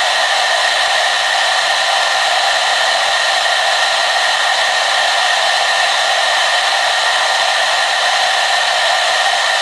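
Hair dryer running steadily: a constant airy rush with a high, steady whine, unchanging throughout.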